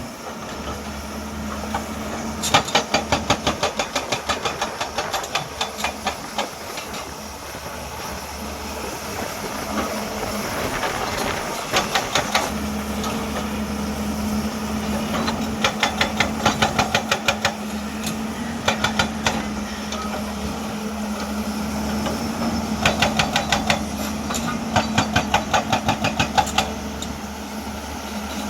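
Hydraulic breaker hammer on a Hyundai excavator pounding rock in repeated bursts of rapid blows, several a second, with short pauses between bursts. The excavator's diesel engine runs steadily underneath.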